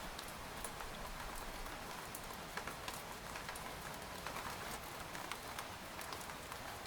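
Steady rain falling on a tent, with many separate drops ticking sharply on the fabric over an even hiss of rainfall.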